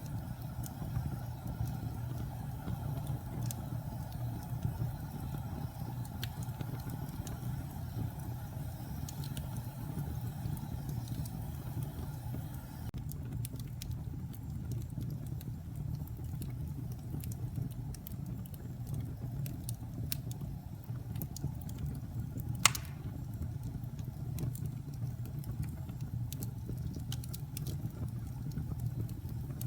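Wood fire burning in a fireplace: a steady low rumble of flames with scattered small crackles, and one loud sharp pop about three quarters of the way through.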